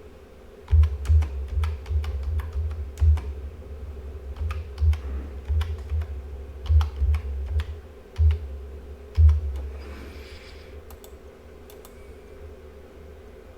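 Typing on a computer keyboard: an irregular run of keystroke clicks, each with a dull knock, stopping after about nine seconds. A short hiss follows, over a steady faint hum.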